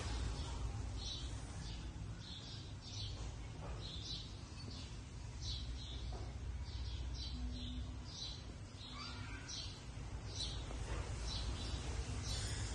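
Small birds chirping repeatedly with short, high, irregular chirps, over a steady low background rumble.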